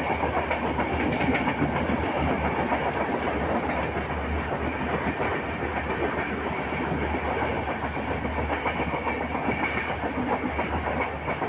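Passenger train running along the track, heard from on board: the steady noise of the wheels on the rails and the moving coaches.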